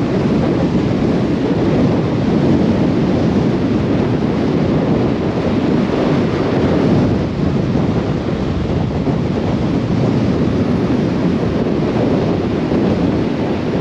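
Storm-force wind buffeting the microphone in a steady, loud rush.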